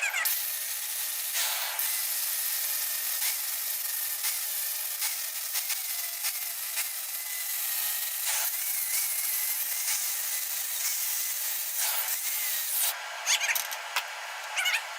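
Gas brazing torch hissing steadily as braze is built up on a worn metal part. The hiss cuts off about thirteen seconds in, followed by a few sharp clicks.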